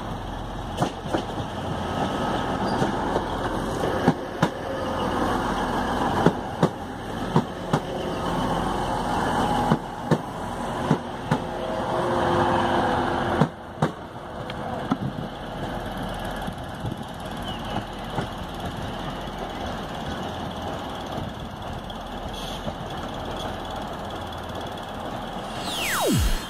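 TransPennine Express Class 185 diesel multiple unit running through the station, its wheels clicking over rail joints and points. About halfway the sound drops abruptly quieter. Near the end a loud falling swoosh, a video transition effect, cuts in.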